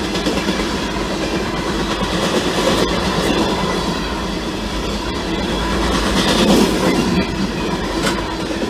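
Local freight train rolling past at close range: a steady rumble of steel wheels on the rails, with a few sharp clacks as the wheels cross rail joints.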